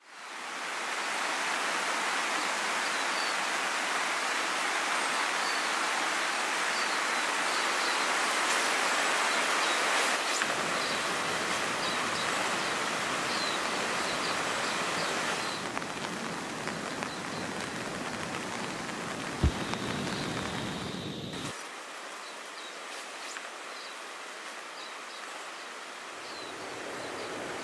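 Steady hiss of falling rain and running water, changing in tone abruptly every few seconds. A single sharp knock about twenty seconds in.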